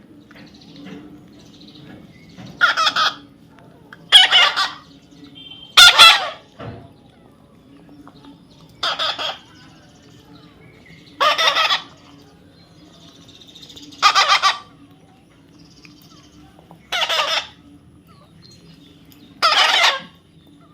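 A parrot squawking: eight short, harsh calls of about half a second each, spaced every two to three seconds.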